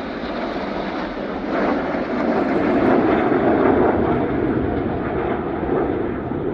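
Jet noise from Red Arrows BAE Hawk T1 jets passing during their display, swelling to a peak about three seconds in and then easing off.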